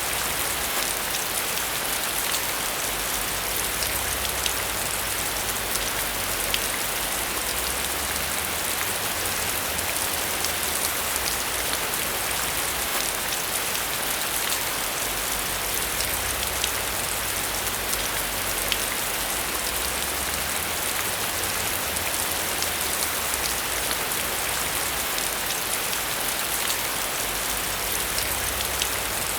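Steady rain falling on a surface, a dense hiss with many small drop ticks and no thunder.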